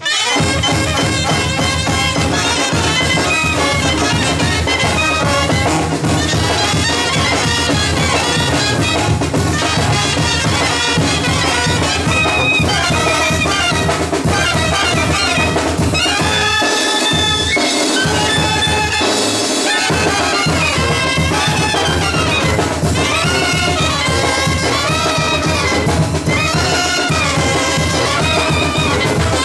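Band music led by brass, with percussion keeping a steady beat; the bass drops out for a few seconds about two-thirds of the way through.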